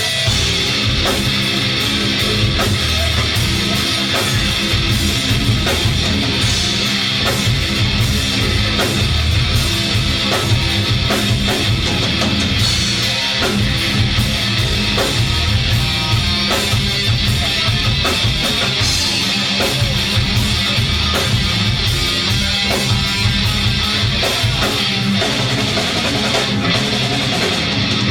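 Live rock band playing a song, with loud guitars over a drum kit.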